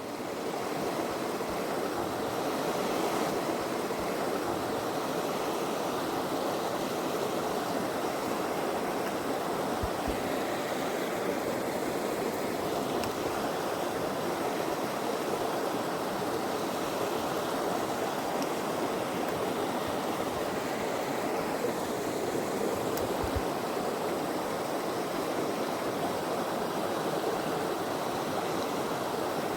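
Small rocky creek rushing steadily, water tumbling over stones into a pool.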